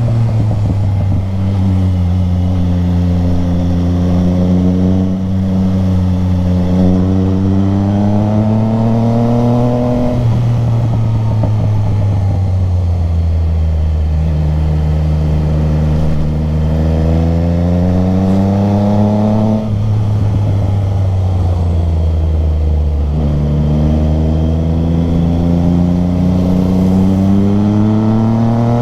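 Motorcycle engine under way, its pitch climbing three times as it accelerates, each climb ending in a sudden drop, then falling away slowly as it eases off. A steady rush of wind and road noise runs underneath.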